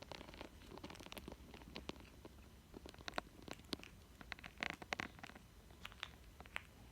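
Indian ringneck parrot playing with a toy: faint, irregular clicks, taps and scratches of beak and claws on the toy, with a denser burst of scratching about two-thirds of the way through.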